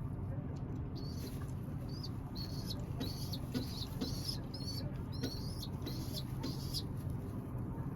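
A pigeon squab giving short, high squeaks over and over in quick runs, over a steady low hum.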